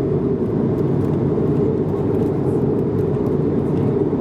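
Steady cabin noise of an Airbus A220-300 in flight: a constant low rush of airflow and engine drone, heaviest in the low range, with a few faint ticks.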